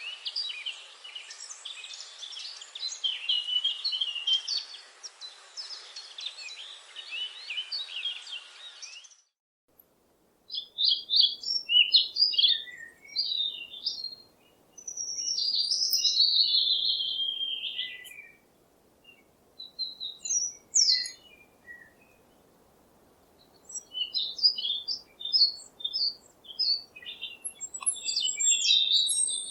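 Birds chirping: a dense chorus of many overlapping high chirps for the first nine seconds or so, then a cut to separate chirping and warbling song phrases.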